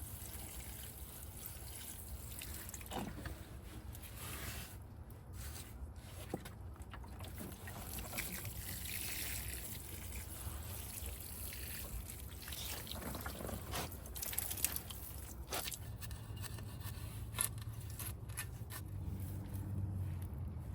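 Water trickling and pouring onto garden soil, watering in a freshly planted plant, with a few light knocks from handling.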